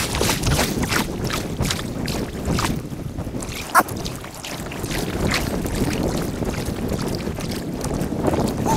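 Kayak paddling on a river, played back sped up: steady water wash and irregular splashes from paddle strokes, with wind on the microphone. There is a brief sharp knock about four seconds in.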